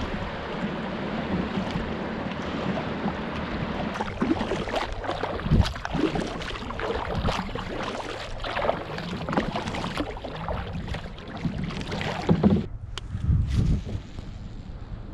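Kayak being paddled: irregular paddle strokes splashing in the water, with wind buffeting the microphone.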